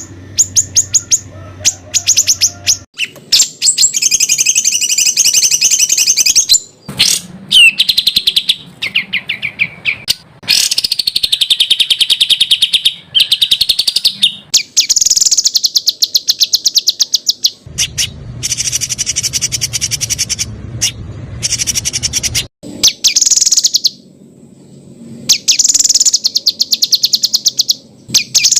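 Songbird song in fast, harsh trilled phrases. Each phrase is a rapid run of repeated notes lasting one to a few seconds, with short pauses between. These are the 'tembakan' ('shot') phrases played in masteran tapes to teach competition songbirds.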